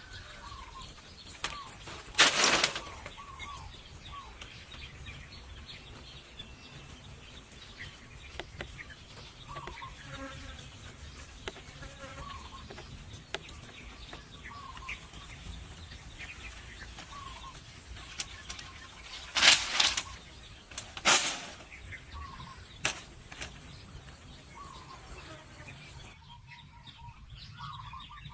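Small birds chirping repeatedly, with three short, loud noisy bursts of about half a second each: one about two seconds in and two close together about two-thirds of the way through.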